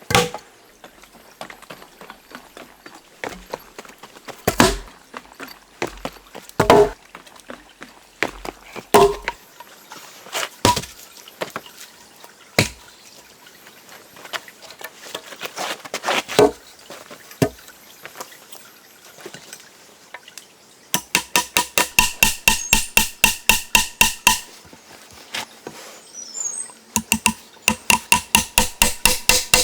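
Hand tools working wood. About eight separate knocks, like chopping or striking, come in the first part. Then there are two runs of fast, even back-and-forth strokes on wood, about six a second.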